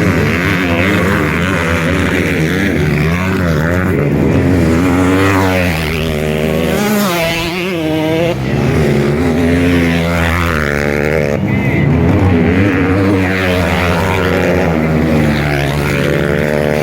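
Several motocross bikes racing, their engines revving up and down in overlapping rising and falling whines as the riders work the throttle.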